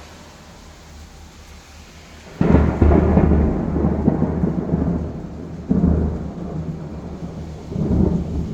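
Thunder in a rainstorm: a sudden loud clap about two and a half seconds in, then deep rumbling that swells twice more, over steady rain hiss.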